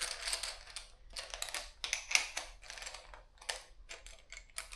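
Irregular light clicks and rattles of metal bicycle parts being handled as a saddle is fitted onto its seat post clamp.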